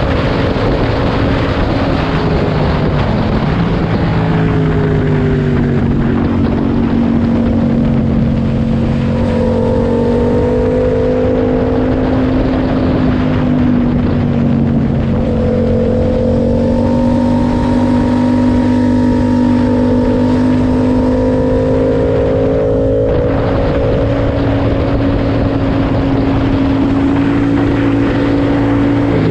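Yamaha MT-07's parallel-twin engine running through an SC-Project track exhaust at a steady cruise, its note holding nearly level and dropping right at the end as the throttle is eased off. Heavy wind rush runs under it.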